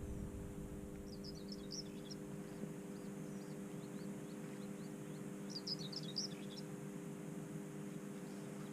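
Songbird chirping: two bursts of quick high chirps about four seconds apart, with fainter chirps between, over a steady low hum.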